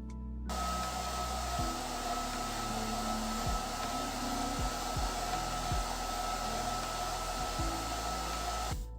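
A small electric motor blowing air, with a steady whine over the rush. It switches on about half a second in and stops abruptly near the end, with soft background music underneath.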